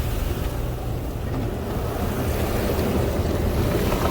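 Tunnel car wash heard from inside the car: a steady rush of water spray and wet cloth washers working over the body, with a low rumble underneath.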